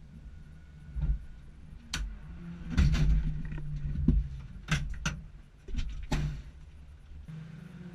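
Low road and engine rumble of a car, broken by a series of sharp knocks and bangs, the loudest about three seconds in.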